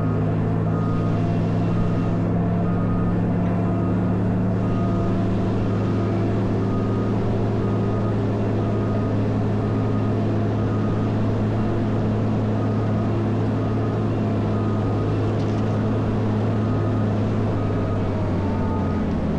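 CAT 140M motor grader's diesel engine running steadily, with its backup alarm beeping about once a second as it reverses.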